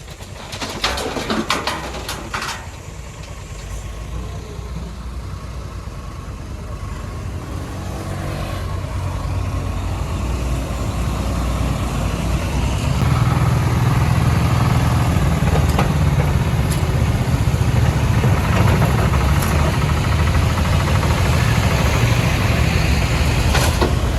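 Heavy diesel engine running, growing steadily louder over about ten seconds and then holding steady. A few sharp knocks come in the first couple of seconds.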